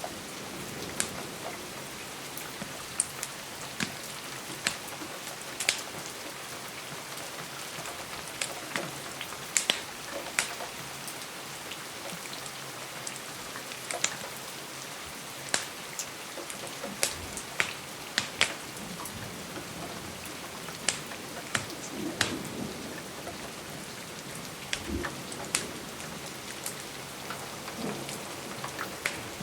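Steady rain on a window, with frequent sharp crackles and pops from a wood fire scattered through it.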